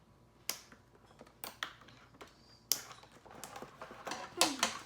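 Scattered clicks and knocks of a large plastic action figure and its packaging being handled as it is pulled out of the box, busier in the second half. A short vocal sound comes near the end.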